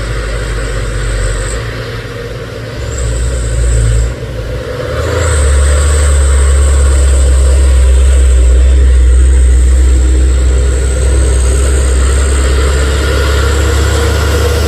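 Heavy truck's diesel engine labouring up a steep grade, getting louder about five seconds in and staying loud, with a high steady whine above the engine that cuts out twice early on.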